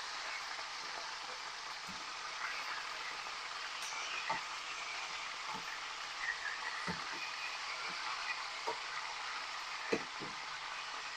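Chicken thighs and drumsticks pan-frying in oil: a steady sizzle with scattered pops and crackles of spitting fat.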